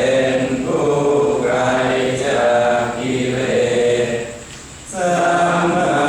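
A group of voices chanting together in unison in Thai Buddhist style, holding long, steady notes, with a short pause for breath about four and a half seconds in.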